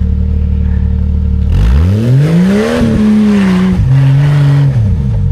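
Jeep Cherokee XJ engine revving hard from idle about a second and a half in. The pitch rises, holds and steps down over a rushing hiss of spinning tyres, then drops back to idle near the end: the wheels are spinning without traction on the climb.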